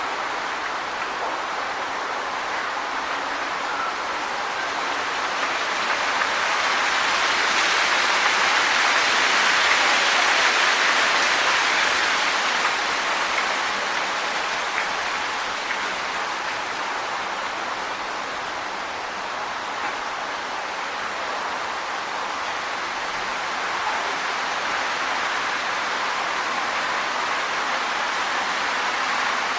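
Wind blowing through trees, rustling the leaves in a steady hiss that swells in a gust about ten seconds in and then eases off.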